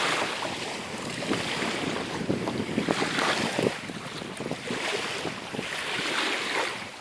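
Wind buffeting the microphone over water splashing and lapping as a kayak is paddled, in irregular swells of hiss.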